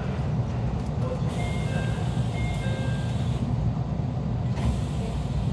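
Steady low rumble inside a standing electric train carriage. About a second in, a short run of high notes at changing pitches plays over a brief hiss, and the hiss comes back near the end.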